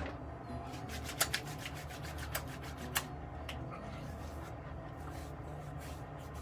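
A bottle of Thayer's lemon witch hazel toner being handled and the toner rubbed onto the freshly shaved skin. There are a few sharp clicks and taps in the first few seconds, and soft rubbing after them.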